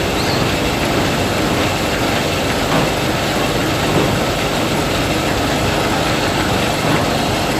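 Combine harvester running steadily, its engine and threshing machinery making a loud, even noise.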